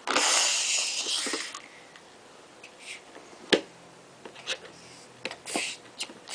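A hiss lasting about a second and a half, then scattered light clicks and knocks of plastic toys being handled.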